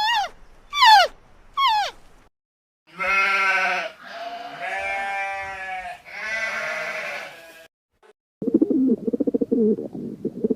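Animal calls in sequence: a few short calls that each fall in pitch, then three long wavering cries of about a second each, then a fast pulsing low call near the end.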